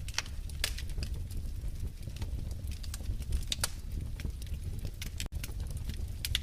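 Wood fire crackling in a fireplace: irregular sharp pops and snaps over a low, steady rumble of the flames, with a split-second gap about five seconds in.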